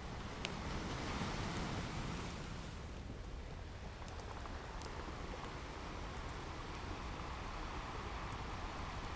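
Ocean surf washing in a steady rush that swells a second or so in, with a fire crackling over it in scattered small pops.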